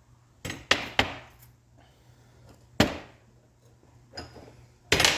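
Sharp metallic knocks and clunks from clutch parts being handled or struck during bearing removal: three close together about half a second in, one near the middle, and a louder one near the end.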